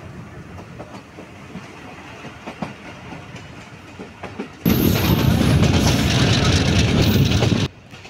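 Passenger train running on the rails, heard from inside a coach: a steady rumble with faint wheel clicks. About halfway through, a much louder rushing roar starts suddenly, lasts about three seconds and cuts off abruptly.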